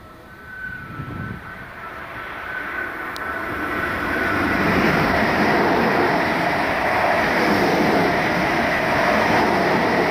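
Greater Anglia electric multiple unit approaching and passing through the station, its wheels and running gear growing louder over the first few seconds and then holding a steady rumble as the coaches go by.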